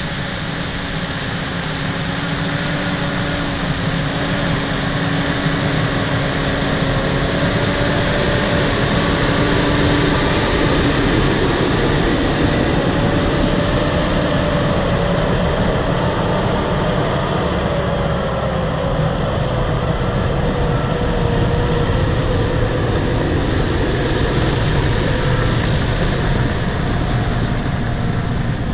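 Bulldozer's diesel engine running steadily under load while the machine strips topsoil, with the rumble and clatter of its tracks; the engine tone drifts slightly up and down.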